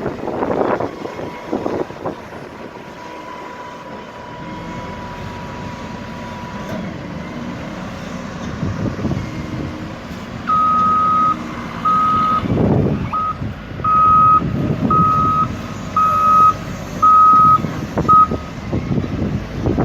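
A heavy earthmoving machine's backup alarm sounds a single high-pitched beep about once a second, starting about halfway through and repeating some eight times. Under it a diesel engine runs, swelling a few times.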